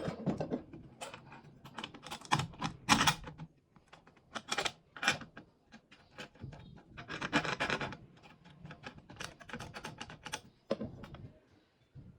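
Hand work on metal parts of a home-built belt grinder: irregular clicks and knocks with a few short scraping strokes, the longest about halfway through.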